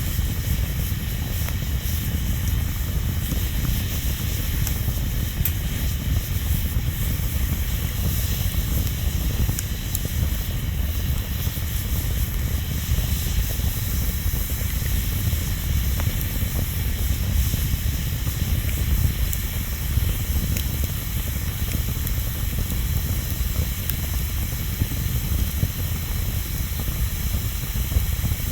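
Wood fire burning: a steady low rumble of the flames under a constant hiss, with scattered faint crackles and pops.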